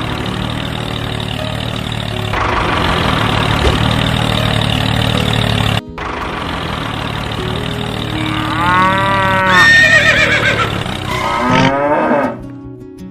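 A steady tractor engine sound runs, briefly cutting out about six seconds in, then two loud livestock calls come near the end: a cow's moo and a horse's whinny.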